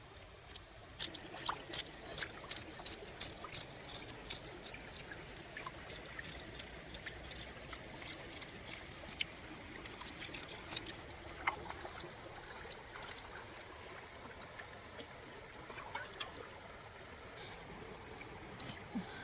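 Water trickling and splashing, with many small scattered clicks and knocks.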